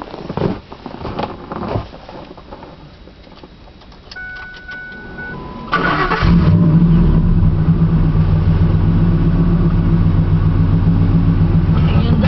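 A 2000 Ford F-150's 5.4-litre V8, running on long-tube headers with no catalytic converters and a Magnaflow side-exit exhaust, is started: a short electronic tone, then the engine catches about six seconds in and settles into a loud, deep, steady idle.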